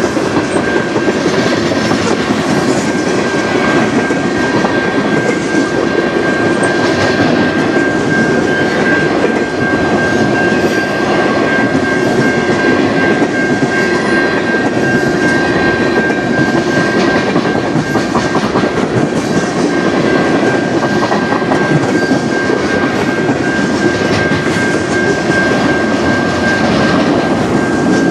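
Freight train cars rolling past close by: a steady rumble and rhythmic clatter of steel wheels over the rail joints. A thin, steady high-pitched tone runs over it throughout.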